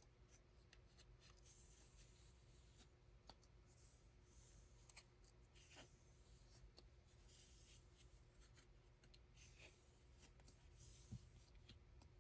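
Faint rustling of yarn with scattered light clicks from hand weaving work, and a soft knock near the end.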